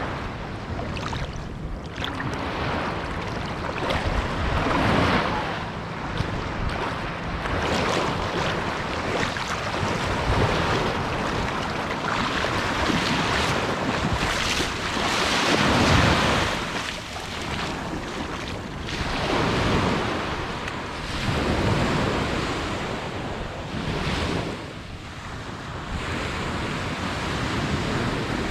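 Ocean waves breaking and washing up on a beach, swelling and fading every few seconds, with wind buffeting the microphone.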